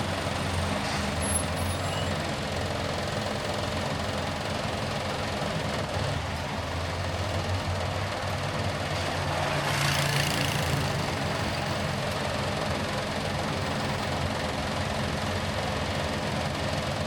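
A car driving, with steady engine hum and road noise, and a brief swell of hissing noise around the middle.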